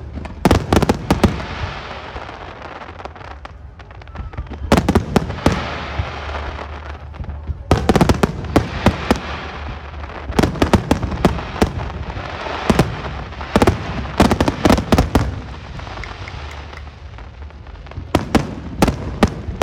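Fireworks display: volleys of aerial shells bursting in quick clusters of sharp bangs every few seconds, with crackling and hissing between the clusters.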